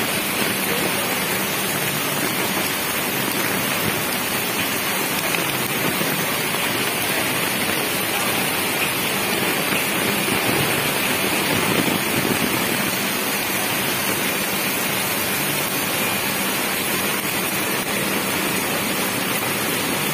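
Heavy rain pouring down steadily, a continuous even rushing hiss.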